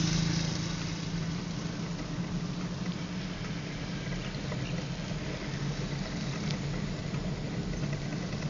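Road traffic: a vehicle engine's low hum over a steady rushing noise, louder at first and easing off within about a second.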